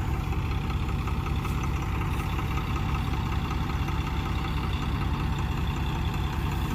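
Farm machine's diesel engine running steadily at idle, with a low, even throb.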